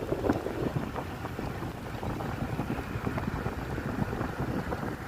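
Wind buffeting the microphone on a moving motorbike, a steady gusty rumble with the ride's low vehicle noise underneath.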